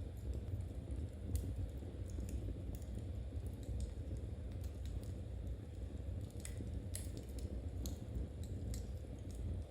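Wood fire in a fireplace crackling, with irregular sharp ticks and pops over a low steady rumble. Light clicks of knitting needles may be mixed in.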